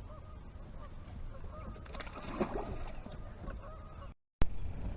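Bird calls over a low rumble of wind on the microphone, with a brighter run of calls about two seconds in.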